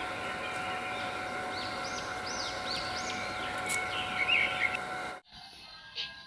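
Small birds chirping and twittering in repeated short arching calls over a steady outdoor hum. About five seconds in the sound cuts off suddenly to a much quieter room with a few sharp taps.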